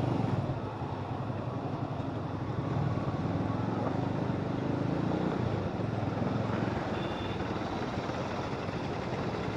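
Motorcycle running steadily while being ridden, with road and traffic noise.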